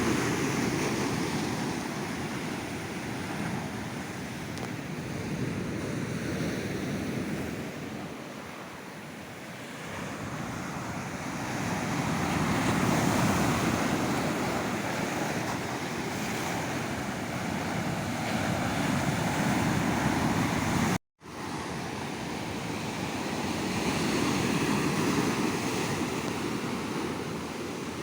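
Sea surf on a beach: waves breaking and washing ashore in a steady rush that swells and fades every several seconds. The sound drops out to silence for an instant about three-quarters of the way through.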